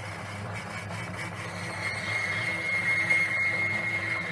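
Old Burgess BBS 20 bandsaw running and cutting through thin plywood. A steady motor hum with a high, steady whine that gets louder from about halfway through as the blade works through the wood.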